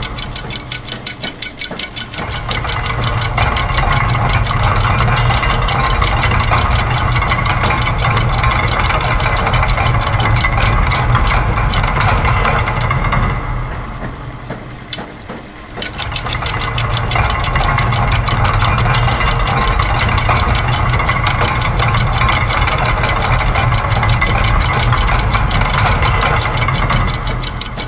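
Industrial ambient soundscape of looped factory machine sounds layered together: a fast, steady mechanical clicking and clatter over a low hum. The mix thins out and drops back briefly near the start and again about halfway through.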